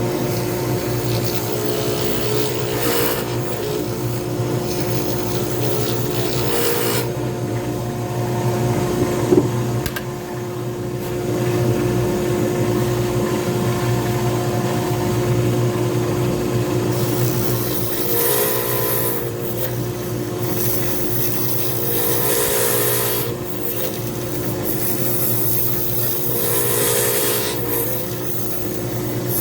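Small lathe motor running steadily while a tool rasps against the spinning pen blank, the scraping noise swelling and fading in passes. There is one sharp knock about a third of the way in.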